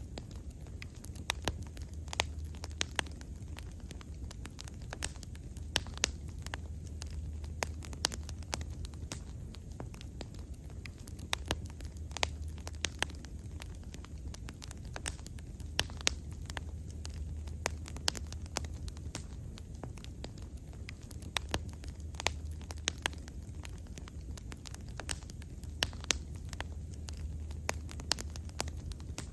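Wood bonfire burning, with irregular sharp crackles and pops over a low steady rumble.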